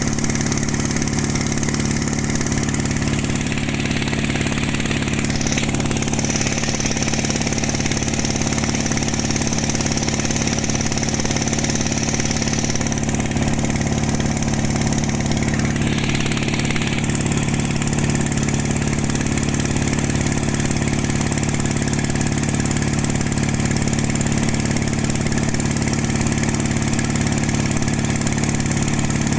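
Single-cylinder 1115 diesel engine of a pompong cargo boat running steadily with an even, unchanging drone. A hiss sits above it and shifts a few times.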